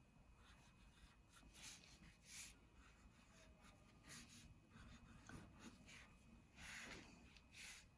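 Faint scratching of a pencil on paper: several short strokes as hearts are drawn.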